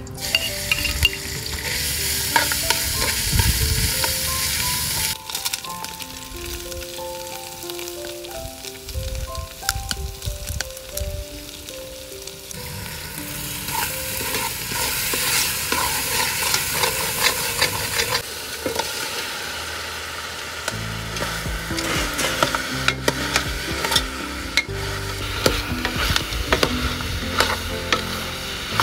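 Yellow spice paste, and later chopped duck pieces, sizzling as they fry in oil in an aluminium pot, stirred with a spatula.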